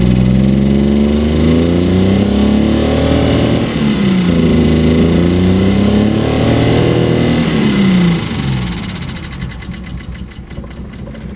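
1981 Nissan (Datsun) 280ZX's 2.8-litre inline-six revving up and down slowly twice under the throttle, then falling back about eight seconds in to lower, unsteady revs. The sluggish climb in revs and the roughness are the sign of a fuel-delivery fault, which turned out to be a rusted-out gas tank.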